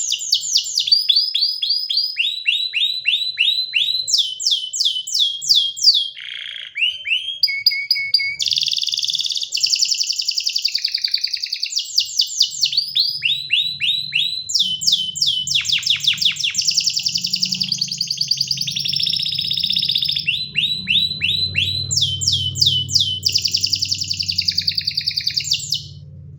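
Domestic canary singing a long, continuous song of rapid trills: each run is a fast series of identical falling notes, and the bird switches to a new run every second or two. A faint low hum sits underneath from about halfway in.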